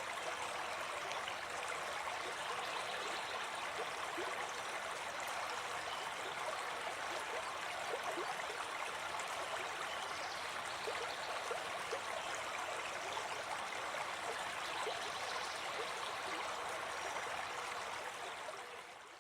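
Forest stream running, a steady rush of water with many small gurgles, fading out at the very end.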